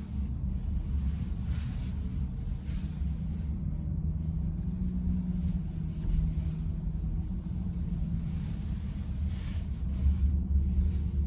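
Steady low road and engine rumble inside a moving car, with a faint steady hum. The steering column is quiet, in its normal state.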